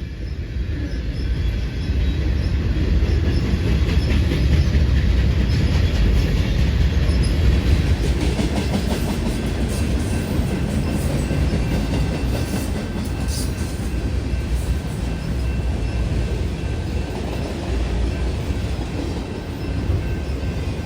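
Freight train's cars rolling past, a steady loud rumble of steel wheels on the rails with faint high steady tones over it.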